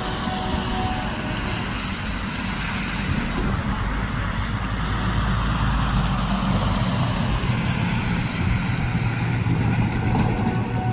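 Diesel-electric freight locomotive engine running with a steady low rumble, growing a little louder after a few seconds.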